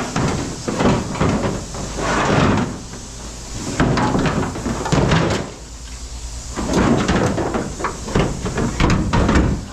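Scrap metal pieces being handled, with repeated knocks and scraping in clusters and a brief lull about halfway through.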